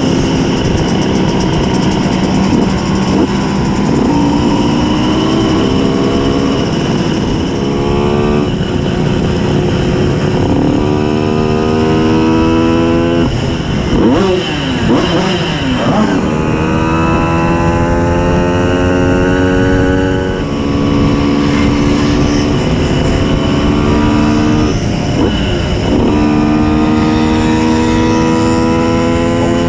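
Simson S51 moped's tuned 90 cc reed-valve two-stroke engine riding along, the pitch climbing and then dropping back at each of several gear changes. About halfway, a second engine's pitch briefly sweeps across it.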